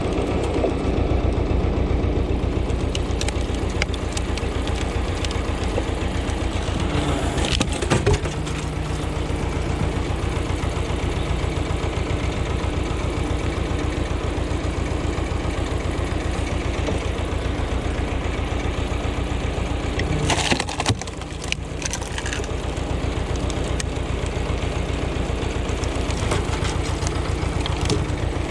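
Ursus tractor's diesel engine running steadily at a fast, even firing beat. There is a sharp crack about a quarter of the way in, and a brief noisy burst about two-thirds through.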